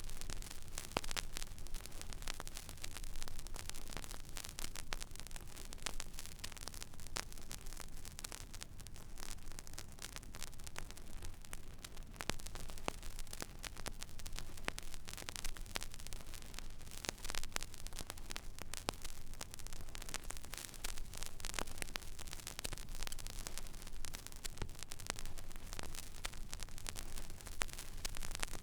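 Turntable stylus tracking an empty vinyl record groove: steady surface hiss full of small crackles and pops, with a low steady hum underneath.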